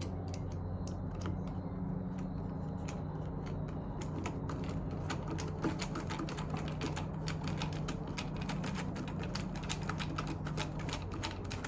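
Quick, irregular light clicks and taps of small parts and hand tools being handled while reassembling a Stihl BR340 leaf blower, sparse at first and busier from about four seconds in, over a steady low hum.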